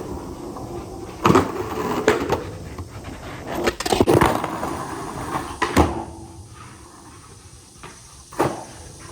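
Skateboard wheels rolling on concrete, with half a dozen sharp clacks and knocks of the board as tricks are popped and landed. The rolling dies down about six seconds in.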